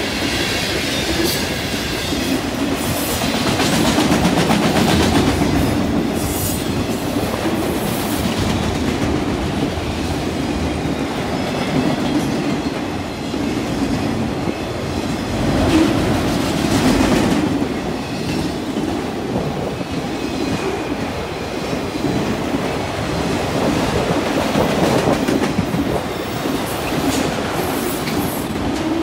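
Freight train cars, covered hoppers and autoracks, rolling steadily past, their steel wheels rumbling and clicking on the rails.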